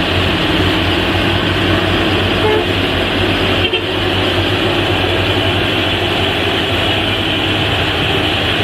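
Truck traffic: a heavy engine running steadily with road noise, briefly dipping a little under four seconds in.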